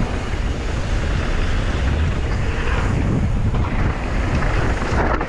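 Wind rushing over the microphone of a camera on a mountain biker riding downhill at speed, with a steady low rumble from the bike on the trail.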